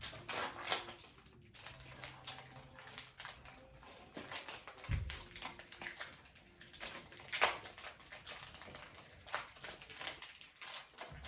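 Chocolate chip granola bar being unwrapped and eaten: faint, irregular crinkles of the wrapper and crunchy chewing, with a few sharper clicks.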